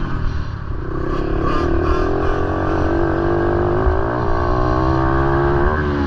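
Motorcycle engine running at a steady speed; its note comes in about a second in and holds steady, with slight wavers in pitch.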